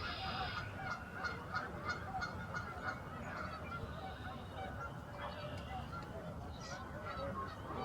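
A large flock of wild geese calling all together: a dense, unbroken chorus of many overlapping short honks.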